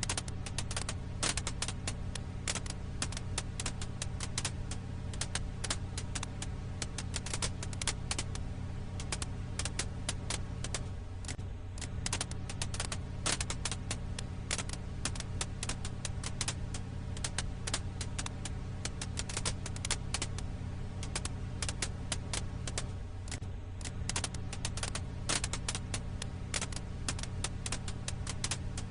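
Wood fire crackling: dense, irregular pops and snaps of burning firewood over a steady low rumble.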